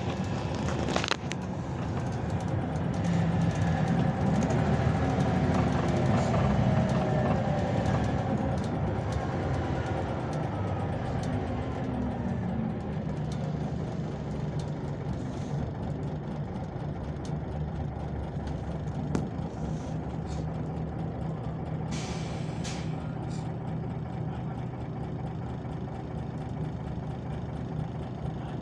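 Scania OmniLink city bus engine running. Its pitch climbs over a few seconds as the bus speeds up, then slides slowly back down. A short hiss comes near the end.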